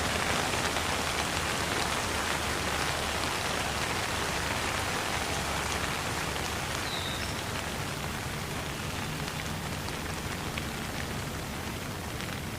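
Steady rain falling on surfaces, a dense even hiss with scattered drop ticks, easing slightly toward the end.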